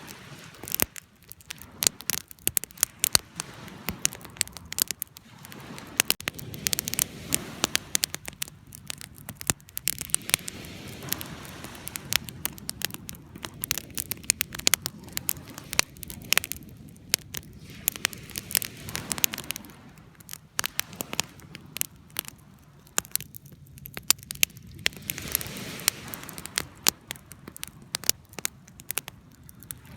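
Wood campfire crackling, with frequent sharp, irregular pops over a steady low rush of burning.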